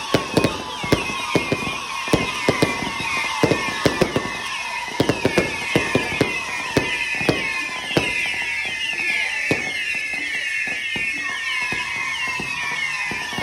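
Fireworks going off: a rapid, irregular run of sharp bangs mixed with a constant chorus of whistling shells. The bangs thin out about halfway through while the whistles carry on.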